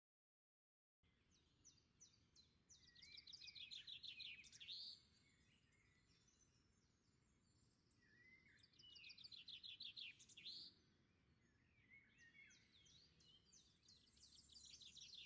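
Faint songbird song: three trilled phrases of rapid repeated high notes, each ending in a quick slur, coming about every five to six seconds after a second of dead silence.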